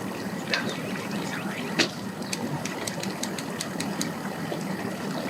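An engine idling steadily, with two short downward-sliding bird chirps in the first two seconds and a quick run of high ticks after them.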